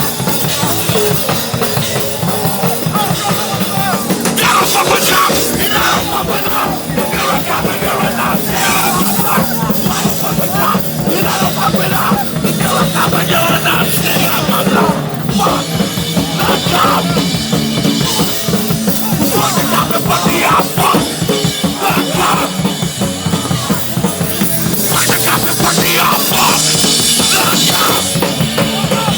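Hardcore punk band playing live at full volume, heard from inside the mosh pit: fast drums and a dense wall of band sound with no break.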